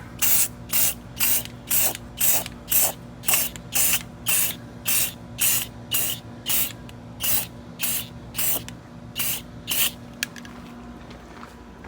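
Spray can of truck bed coating spraying in short bursts, about two a second, stopping about ten seconds in, laying another coat onto a Croc sole.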